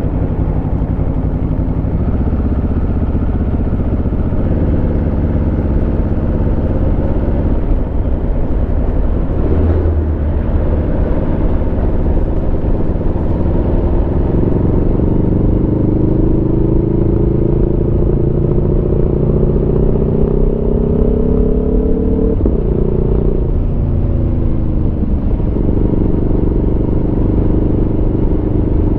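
Aprilia Tuono V4 motorcycle's V4 engine running under way. It holds steady, then pulls with a slowly rising pitch for about ten seconds from the middle, falls away sharply about three-quarters through, and settles steady again, over a low rumble of wind and road noise.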